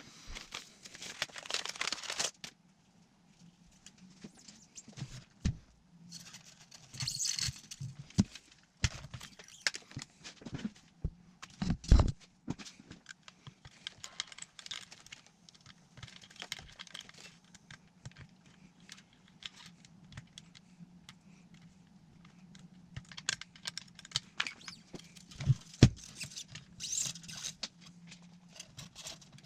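Small handling noises: irregular clicks, taps and brief rustles, with two sharper knocks, about twelve seconds in and near the end, over a faint steady low hum.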